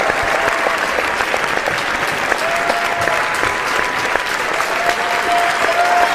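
A large audience applauding steadily with dense, even clapping, with a few long cheering cries from the crowd held over it, one near the middle and more near the end.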